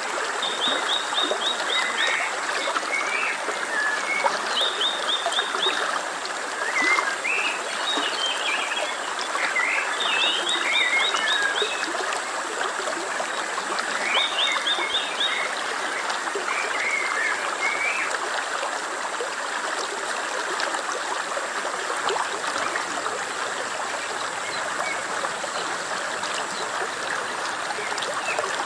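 A stream flowing steadily, with high, rapid chirping trills repeated several times in the first half.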